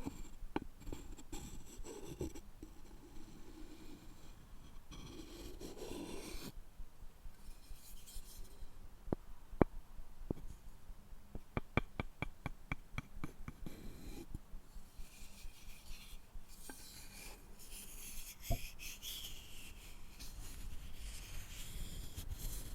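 Wooden objects scraped and rubbed close to the microphone, with scratchy strokes of a second or two. There is a sharp tap a little before halfway, then a quick run of about ten light taps, and another single tap later.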